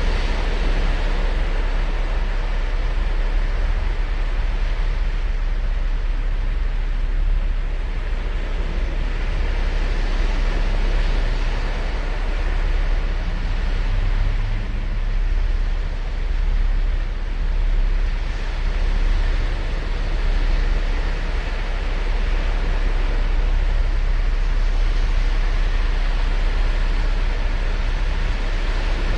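Ocean surf breaking and washing up a sandy beach: a continuous rush of waves that swells and eases in slow surges every several seconds, over a deep low rumble.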